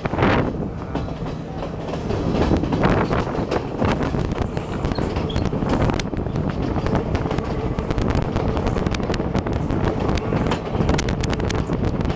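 Sri Lanka Railways Class S12 diesel multiple unit running, heard from the side of a moving carriage: a steady rumble of the running gear with frequent sharp clicks and clatter of the wheels over the track, thicker in the second half.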